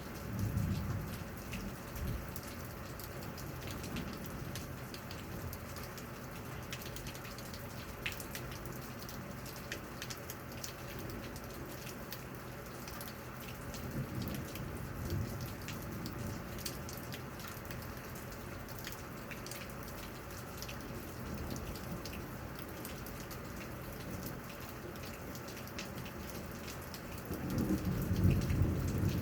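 Thunderstorm: steady rain falling, with the clicks of separate drops. A short low rumble of thunder comes about a second in, and a louder roll of thunder builds near the end.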